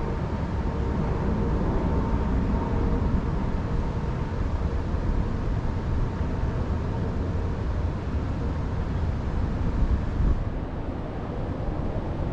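Wind in a mountain forest, heard as a steady low rumbling noise buffeting the microphone, easing slightly about ten seconds in.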